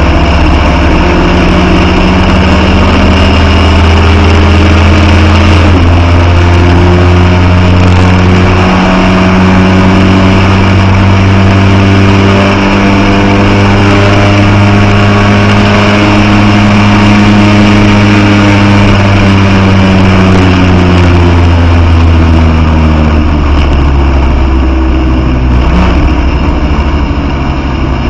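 Austin 7's original 747 cc side-valve four-cylinder engine driven hard on track, heard from inside the car. The engine note rises and falls, with a short sharp dip about six seconds in, a long steady pull in the middle, and a falling pitch over the last few seconds as the car slows.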